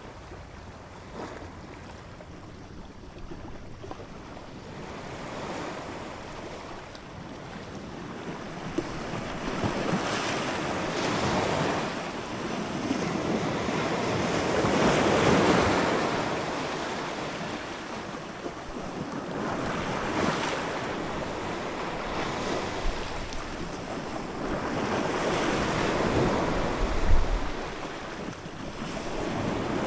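Ocean waves breaking and washing in, swelling and fading in slow surges every few seconds, with wind noise on the microphone. A brief low buffet of wind near the end.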